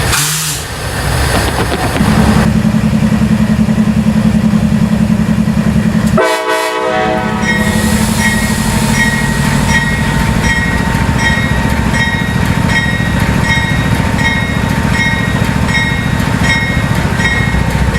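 Diesel locomotive engines running with a steady low hum, joined about eight seconds in by a bell ringing evenly, about one and a half strokes a second.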